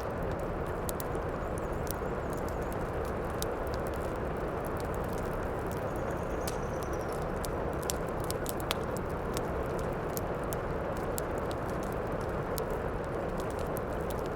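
Heavy rain as a steady, even hiss, with the frequent sharp crackles and pops of a wood fire burning in a fireplace.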